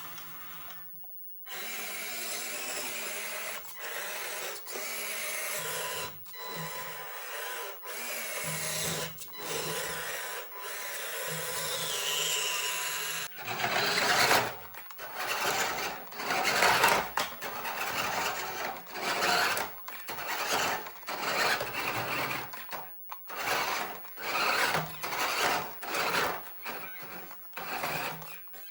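Small electric motors and gearboxes of toy remote-control cars whirring. Steady at first, then starting and stopping in many short bursts from about halfway.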